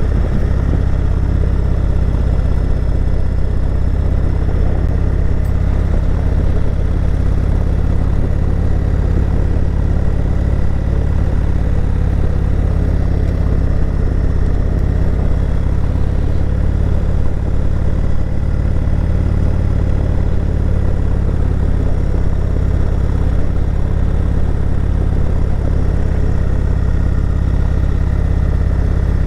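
Motorcycle engine running steadily as the bike rides uphill on paved road, a constant low drone.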